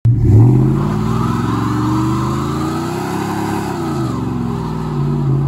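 Vehicle engine revving hard, starting suddenly. Its pitch climbs over the first couple of seconds, drops back about three and a half seconds in, then climbs again near the end.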